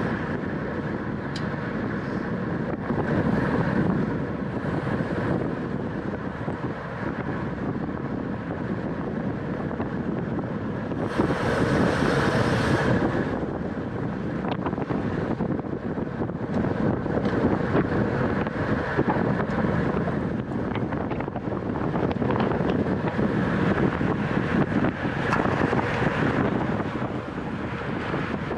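Wind rushing over a racing cyclist's camera microphone at speed, a steady noise that swells louder for a couple of seconds near the middle.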